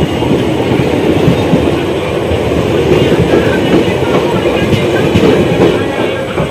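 Passenger express train running at speed, wheels rumbling and clattering on the rails, loud and steady while passing close alongside another train.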